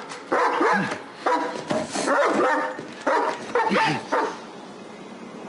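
A run of short, loud barks, about eight in four seconds, ending about four seconds in.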